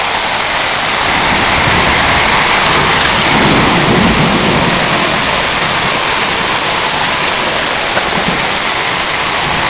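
Heavy tropical storm rain pouring down steadily, with a low rumble swelling about four seconds in.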